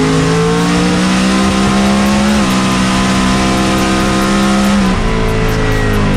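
Drag race car's engine at full throttle down the track, its pitch dropping suddenly at two gear shifts about two and a half and five seconds in, then falling away near the end as the driver lifts off.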